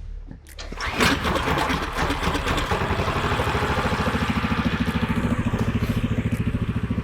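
A 420cc Predator single-cylinder kart engine, its governor removed, being pull-started by hand. It catches about a second in and settles into a steady, even idle.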